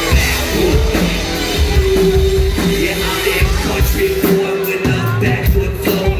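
Live country-rap band music played loud through a club PA, with a heavy kick-drum beat and a held instrumental note.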